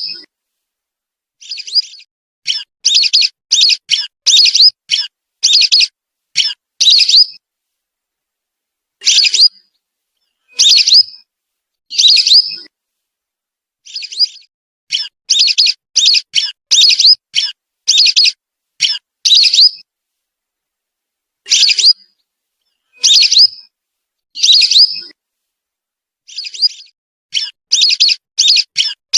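Whistling duck (belibis) calls played as a hunting lure: short, high whistled notes, some single and some in quick runs of four to six, with pauses of a second or two between them.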